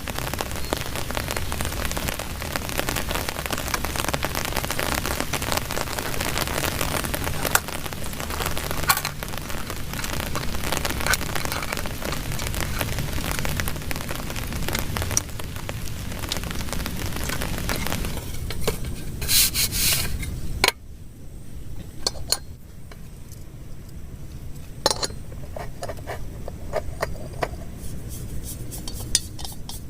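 Heavy rain falling, a dense steady patter of drops with a low rumble beneath. About two-thirds of the way through it cuts off abruptly, leaving a much quieter background with scattered taps and clicks.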